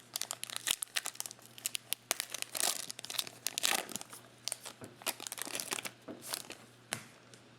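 Crinkling and tearing of a foil trading-card pack wrapper as it is ripped open, a run of irregular crackles that dies away near the end.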